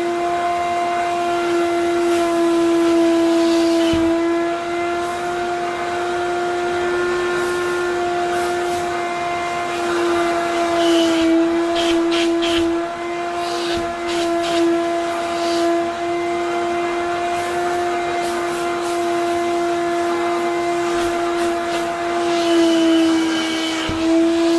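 Wet vacuum cleaner's motor running with a steady, high whine, and a few brief hissy surges of suction about halfway through and near the end.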